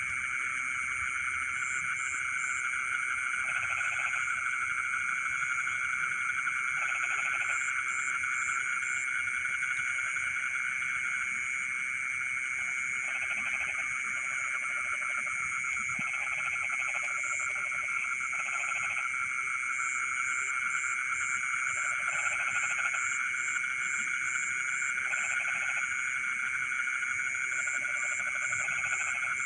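Night chorus of frogs in a flooded rice field: a dense, steady trilling chorus with a high steady buzz above it, and lower croaks lasting under a second that recur every few seconds.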